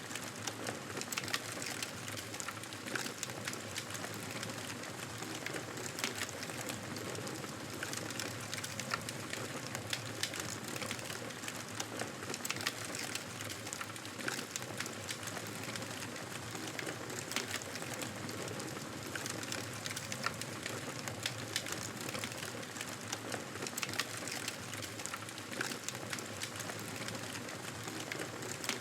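Fire burning in a fireplace: irregular crackles and pops over a steady hiss.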